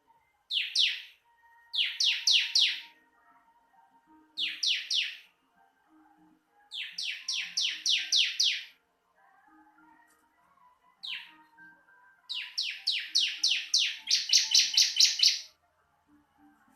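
Bar-winged prinia (ciblek) song: bursts of quick, sharp chirps, each run of three to about a dozen notes sliding down in pitch, repeated with short gaps, the longest and loudest run near the end.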